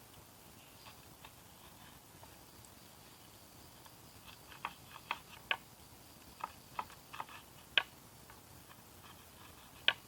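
Wood campfire crackling: irregular sharp pops and ticks, a handful at first, then a cluster of louder pops through the middle and one loud pop near the end.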